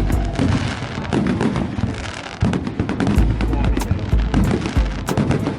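Fireworks going off: a rapid string of sharp bangs and crackles with deep booms, with music underneath.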